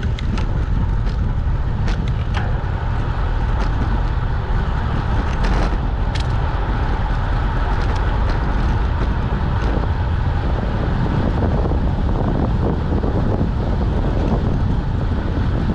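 Heavy wind buffeting on the microphone from riding along on a bicycle: a steady low rumble, with a handful of sharp ticks, the strongest around five to six seconds in.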